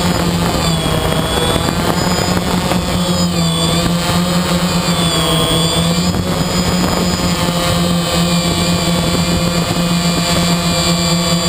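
Quadcopter's electric motors and propellers buzzing steadily, heard close up from the drone itself, with the pitch of the rotors wavering up and down as the motor speeds change in flight.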